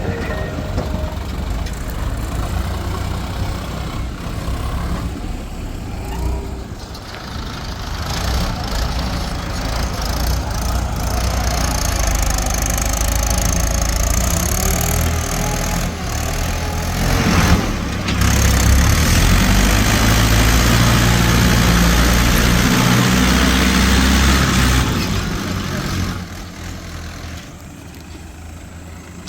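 Heavy diesel machinery engines running, growing louder and harsher for a long stretch in the middle as they work, then dropping back quieter near the end.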